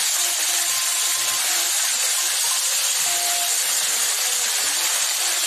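Vegetables and hilsa fish heads sizzling steadily in hot oil in a wok, with a metal spatula scraping and stirring through them.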